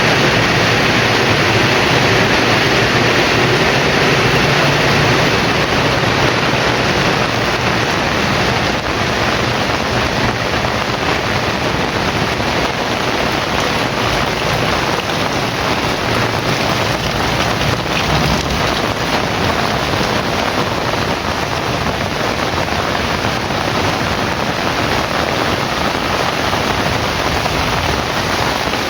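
Heavy rain pouring, a steady dense hiss with no break.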